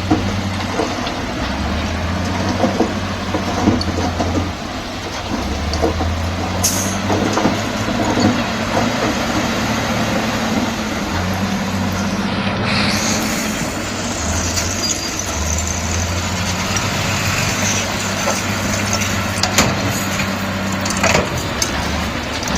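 Heavy diesel engine of a Komatsu D68E crawler bulldozer working, its note swelling and easing every few seconds as the load changes, with occasional clanks. A hiss comes in about halfway through.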